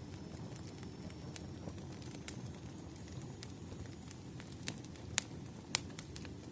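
Wood fire crackling: irregular sharp pops and snaps, the loudest near the end, over a steady low rush.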